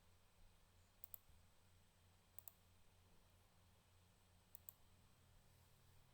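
Three quick double clicks of a computer mouse, roughly a second and a half apart, over a faint steady low hum.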